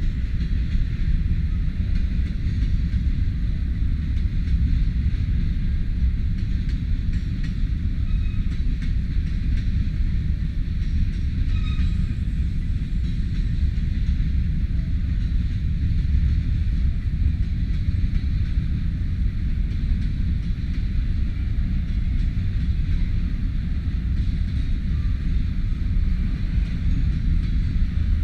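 Freight train of covered grain hopper cars rolling past, a steady low rumble of wheels on rail.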